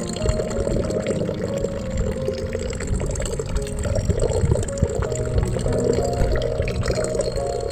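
Steady running water, with soft held musical tones over it.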